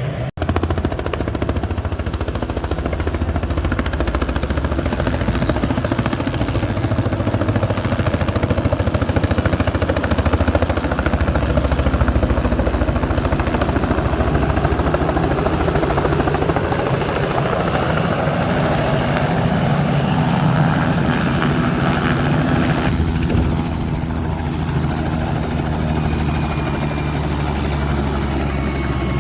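Helicopter engine and rotor running steadily, a loud low drone with a rushing noise over it.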